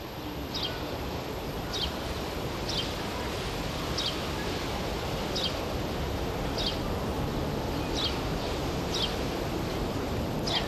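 Steady outdoor background noise, with a bird repeating a short, high, falling chirp about once a second.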